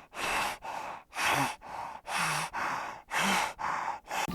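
An animal breathing heavily, with rhythmic, hissing breaths in and out, about one full breath a second.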